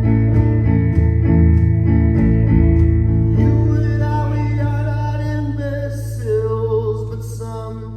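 Live band music: guitar strummed to a steady beat, which drops away about three seconds in, leaving held chords under a wordless, gliding vocal line.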